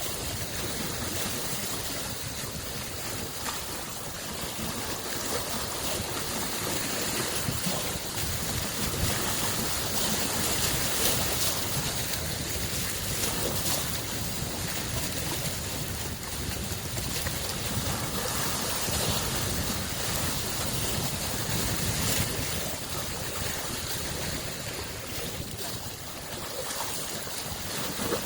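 Small lake waves lapping and washing on the shore, in a continuous wash of water that swells and eases every few seconds, with some wind buffeting the microphone.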